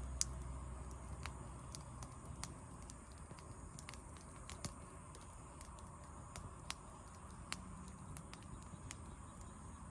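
Wood campfire crackling: irregular sharp pops and snaps over a soft hiss, one louder pop just after the start, with a low rumble that fades away in the first couple of seconds.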